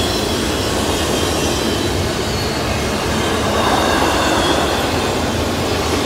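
Double-stack container cars of a CSX freight train rolling past at speed: a steady, loud rumble of steel wheels on rail, swelling a little midway, with a faint high-pitched wheel squeal above it.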